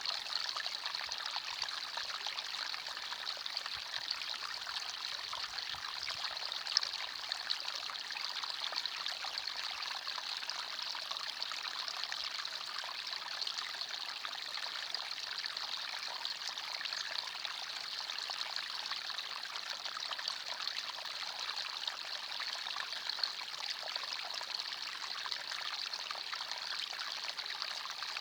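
Forest stream flowing steadily over stones, a continuous bright babbling and trickling of water.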